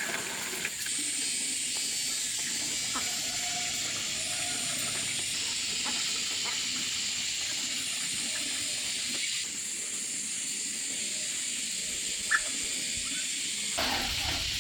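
Water spraying with a steady hiss, with one sharp click near the end.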